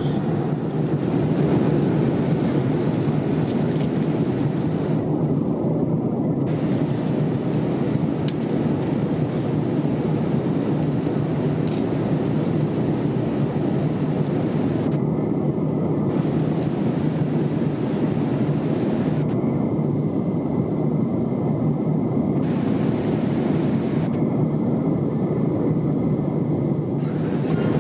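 Boeing 787-8 airliner cabin noise in flight: the steady rush of engines and airflow, heard from a rear window seat.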